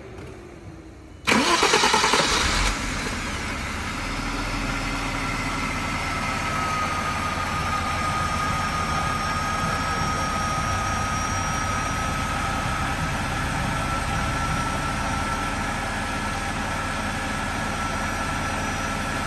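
Cold start of a 1995 Jaguar XJR's supercharged 4.0-litre straight-six: it cranks and catches about a second in, flares loudly for a second or so, then settles into a steady idle with a thin steady whine over it. The owner hears nothing unusual from the supercharger bearing and calls it very quiet.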